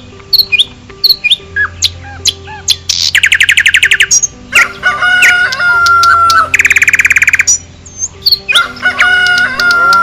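Birds chirping and trilling over a looped background music track, with a fast trill about three seconds in and another near seven seconds.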